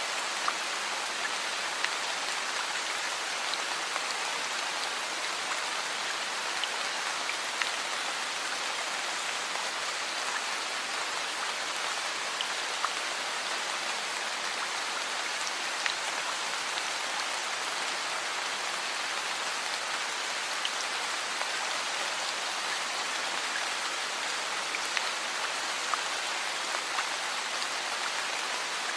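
Heavy rain falling steadily, an even hiss with scattered sharper ticks of single drops.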